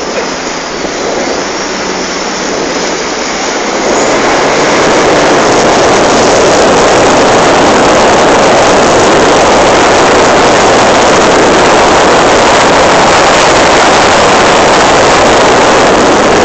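Loud, steady rushing noise of riding at speed behind a jet ski, wind on the microphone mixed with the rush of water. It swells about four seconds in as the tow picks up speed, then holds.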